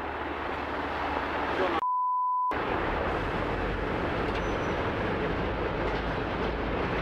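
Steady rushing noise with a low rumble from raw disaster footage. About two seconds in, it is cut for under a second by a single flat 1 kHz censor bleep.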